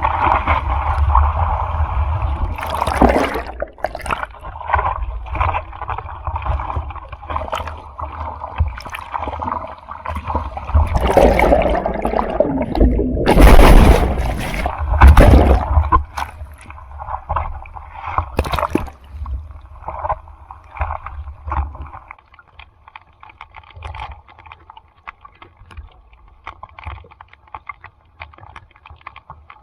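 Ocean surf sloshing and splashing close to the microphone over a low rumble. Louder rushes of water come in the middle, and it settles to quieter lapping after that.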